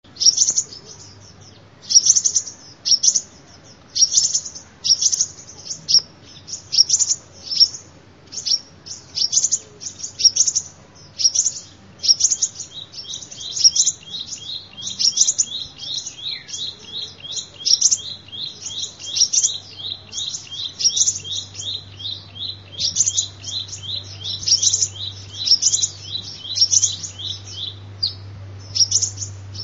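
Sunbird calling: sharp, high chirps repeated about once a second, joined from about twelve seconds in by a rapid twittering run of short notes beneath them.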